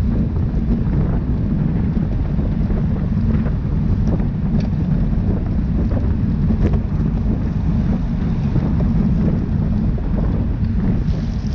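Steady, loud wind buffeting a microphone moving at riding speed in a bicycle race, a heavy low rumble with a few faint clicks.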